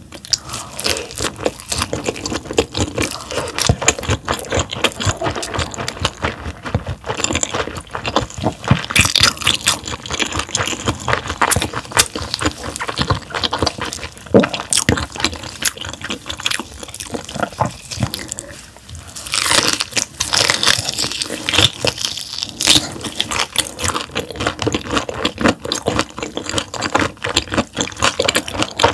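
Close-miked chewing of raw gizzard shad sashimi: a dense, continuous run of sharp mouth clicks, with a short lull about two-thirds of the way through.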